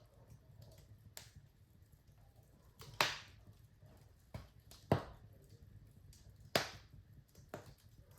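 Wood fire crackling in a fireplace: three loud sharp pops a couple of seconds apart and a few fainter snaps between, over a low steady rumble.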